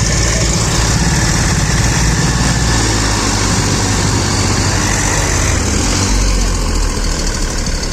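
Diesel tractor engines running loud and steady under heavy load, as two tractors pull against each other in a tug-of-war.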